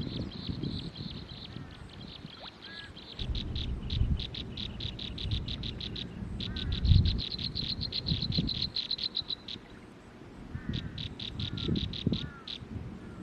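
Small birds calling: trains of rapid, high-pitched pulsing trills that start and stop several times, with a few short chirps, over uneven low rumbling noise.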